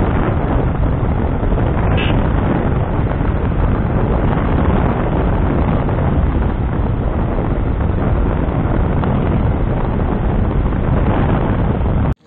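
Wind rushing over the microphone of a moving motorcycle, a steady loud noise with road and engine noise underneath. It cuts off abruptly near the end.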